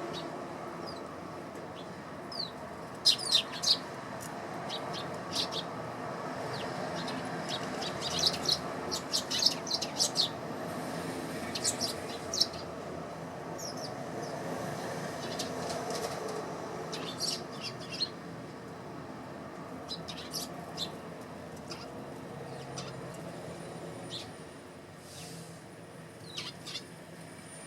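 Eurasian tree sparrows chirping in short, sharp bursts, coming in clusters with gaps between them, over a steady low background hum.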